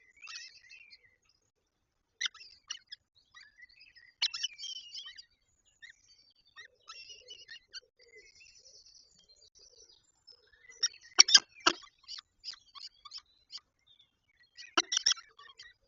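Short high bird chirps and calls, with a brief fast trill about halfway through. Sharp taps come in a quick cluster about two-thirds of the way in and again near the end, and they are the loudest sounds.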